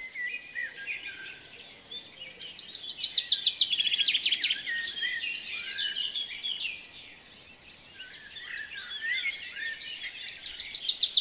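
Songbirds singing: fast repeated trills and chirps, several birds at once, quieter for a couple of seconds about seven seconds in.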